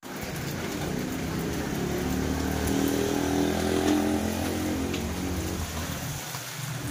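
Steady rain falling on a wet road and leaves, with a motorcycle engine passing by. The engine grows loudest about three to four seconds in and fades away by about five and a half seconds, leaving only the rain.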